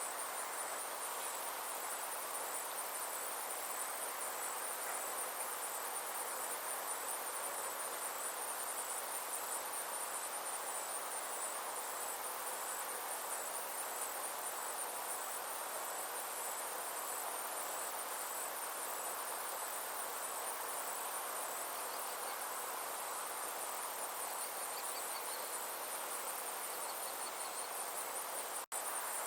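A chorus of summer insects chirring in a steady, rapidly pulsing high-pitched drone over a soft even hiss. It cuts out for an instant near the end.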